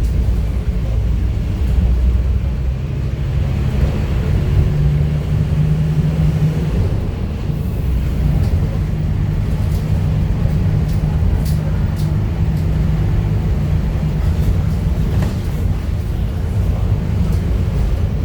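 Scania F250HB bus's diesel engine running under way, heard from inside the cabin. The engine note shifts several times as it pulls, with light rattles and clicks over it.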